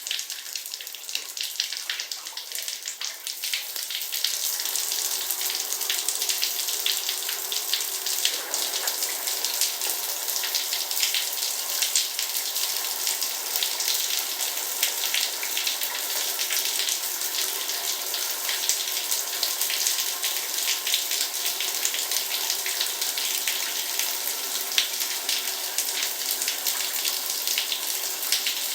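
Heavy rain falling: a dense, steady hiss of countless drop impacts. It swells over the first few seconds, then holds steady.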